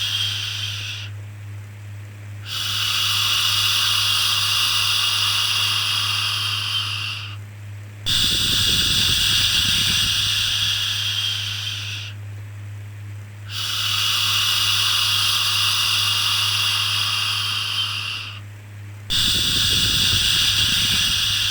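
Long 'shhh' shushing sounds, each lasting four to five seconds, repeated about every five and a half seconds with short pauses between, over a steady low hum.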